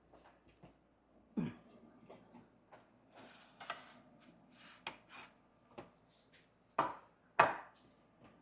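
Kitchen handling sounds: irregular knocks, taps and clatter of utensils and cookware, with three louder thuds, one about a second and a half in and two close together near the end.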